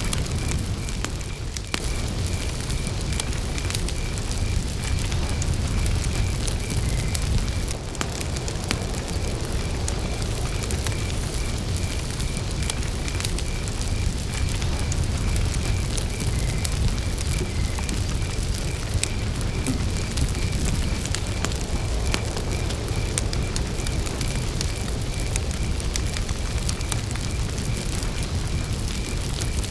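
Wood campfire burning, crackling and popping over a steady low rush of flame. A cricket chirps steadily through it with an even, pulsing high note.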